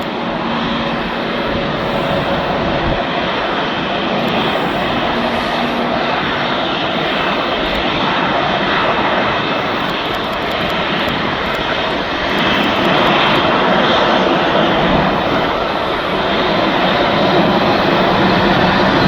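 Airbus A321neo's Pratt & Whitney geared turbofan engines running with a steady jet roar, growing louder about twelve seconds in and again near the end.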